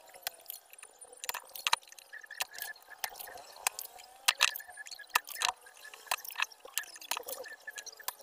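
Soldering iron on flux paste and solder at the IC's pins, giving an irregular, faint crackle and sizzle of short clicks as the solder melts for desoldering.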